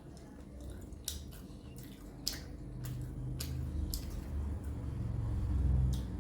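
A person chewing a mouthful of food close to the microphone: wet, squishy mouth sounds with several sharp lip-smacking clicks, over a low rumble that swells toward the end.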